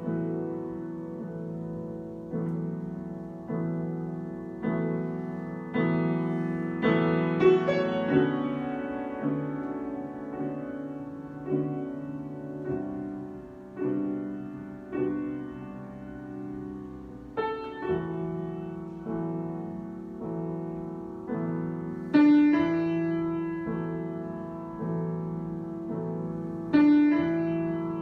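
Solo piano improvisation: slow chords struck about once a second and left to ring and fade, with a few louder, brighter chords about a quarter of the way in and again near the end.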